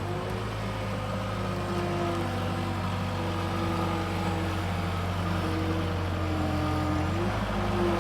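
2007 Case 420 skid steer loader running, its diesel engine humming steadily, with a higher whine that shifts in pitch every second or two. The engine note changes about seven seconds in.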